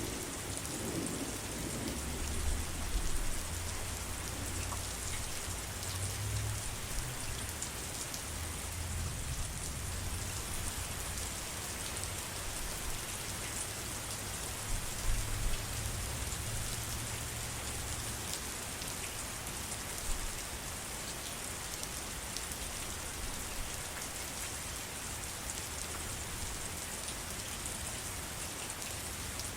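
Steady heavy rain falling, a dense even hiss, with a low rumble that comes and goes through the first half.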